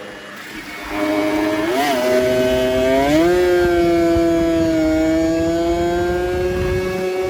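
Kawasaki Ninja 150 RR single-cylinder two-stroke engine running at high revs. It starts about a second in, blips briefly, climbs in pitch just after three seconds, then holds a steady high note.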